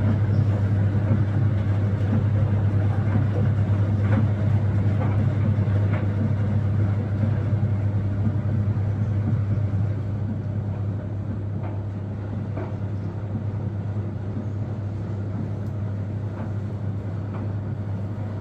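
A steady low mechanical hum with noise above it and a few faint clicks, dropping somewhat in level about ten seconds in.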